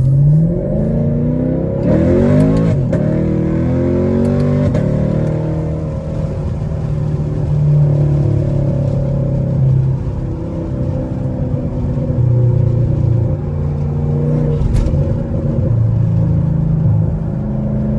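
Straight-piped Chevrolet Camaro SS V8 heard from inside the car, revving up as it accelerates over the first two or three seconds, then running at a steady cruise with small rises and falls in engine speed.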